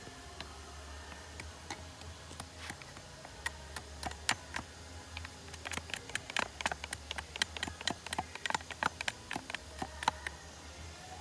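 Rapid, irregular small clicks and ticks, sparse at first and thickest in the middle, over a low steady hum.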